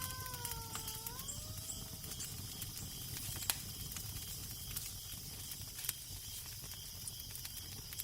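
Crackling fire with scattered sharp pops over a low wind rumble and a faint, evenly repeating chirping of crickets. A wavering, moan-like pitched tone bends up and down at the start and fades out about two seconds in.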